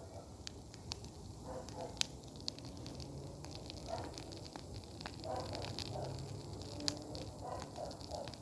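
Campfire of dry branches burning, crackling steadily with sharp pops, the loudest about two seconds in and again near seven seconds.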